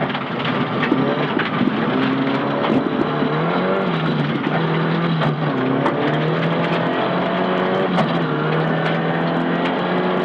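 Nissan Silvia S15 rally car's engine running hard, heard from inside the cabin, holding fairly steady revs except for two brief drops and pick-ups in the middle, with scattered sharp clicks over it.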